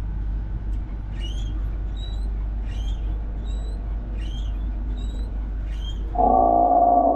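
Exhibit sound effects: a run of about seven short, high chirping calls, roughly one every 0.8 seconds, over a steady low hum. About six seconds in, a loud, sustained gong-like tone starts suddenly.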